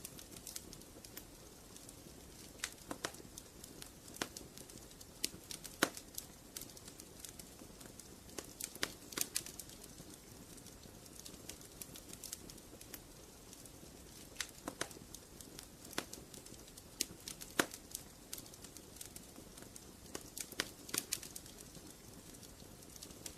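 Wood fire in a fireplace crackling: irregular sharp pops and snaps over a soft steady hiss, with a couple of louder pops.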